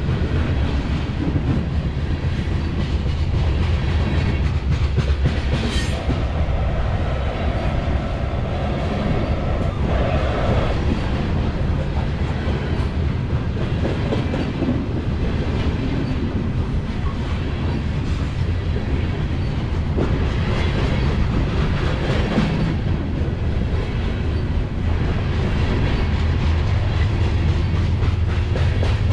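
Freight train of grain cars rolling past, a steady rumble with the wheels clicking over the rail joints. A steady whine rides over it for a few seconds, starting about six seconds in.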